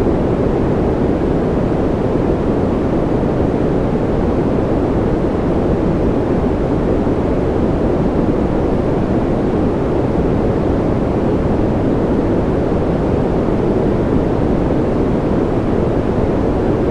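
Steady, unchanging noise played as a baby sleep aid. It is deep and rushing, with most of its weight in the bass and little treble, so it sounds more like brown or pink noise than a bright hiss.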